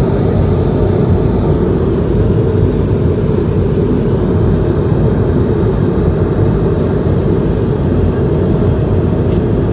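Steady engine and airflow drone inside the cabin of an Airbus A220-100 in flight, a loud even rumble with a faint steady hum in it.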